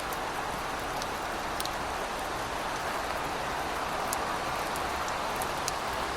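Heavy rain falling steadily, a dense even hiss with scattered sharper drips.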